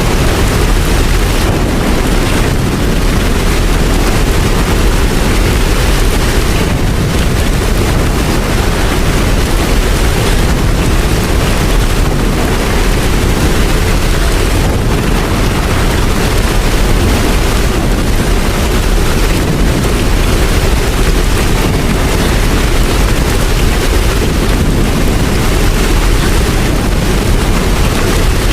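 Steady, loud rain falling without a break, with a deep rumble underneath.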